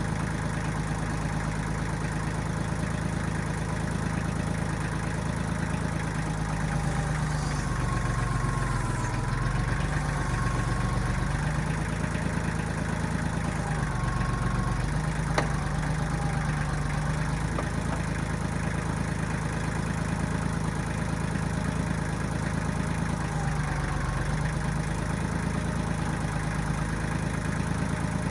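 1995 Kubota backhoe's diesel engine running steadily, its note dipping and recovering a few times, with one sharp click about halfway through.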